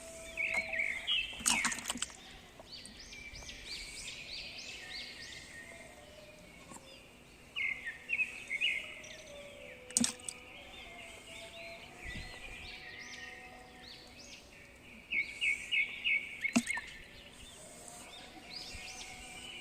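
Birds chirping, with three rapid runs of short notes, over a steady outdoor background; a few sharp clicks or taps stand out, the first about a second and a half in, another about halfway through and one near the end.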